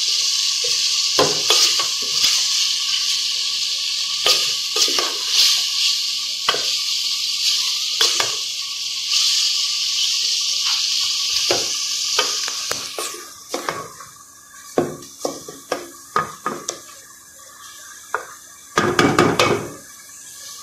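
Meat, onion and tomato masala sizzling in an aluminium pot while a wooden spoon stirs it, scraping and knocking against the pot. About two-thirds of the way in the sizzle dies away, leaving scattered spoon knocks and a louder clatter near the end.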